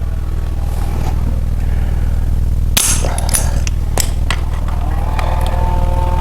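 A few sharp metal clicks and knocks from hand tools working on the engine as it is turned over by hand, over a steady low hum. A held humming tone comes in near the end.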